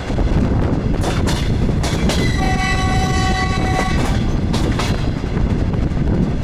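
DR1A diesel railcar under way: a steady rumble with wheels clacking over rail joints in pairs. About two and a half seconds in, a horn sounds one held chord for about a second and a half.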